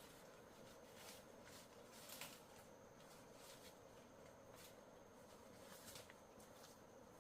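Near silence, with faint scattered clicks and rustles every second or so and a thin, high steady tone in the background.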